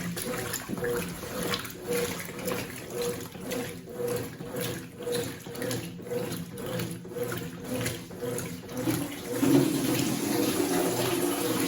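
Consul CWC08 washing machine with water sloshing in an even rhythm of swells. About nine and a half seconds in it gives way to a steadier, louder rush of water.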